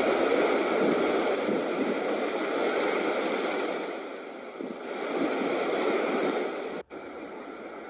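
Floodwater rushing in a flowing wadi, a steady loud rush of water. Near the end it breaks off sharply and carries on as a quieter rush.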